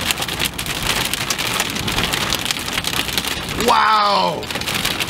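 Heavy rain hitting the storm chasers' vehicle: a dense, steady patter of many fine ticks, with a low hum underneath.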